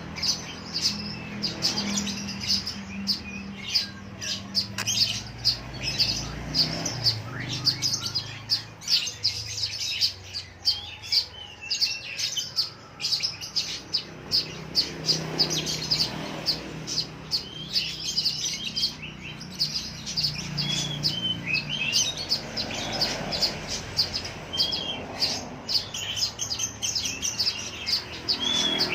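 Lovebirds chirping: a continuous run of quick, high-pitched chirps, with short gliding squeaks mixed in during the second half.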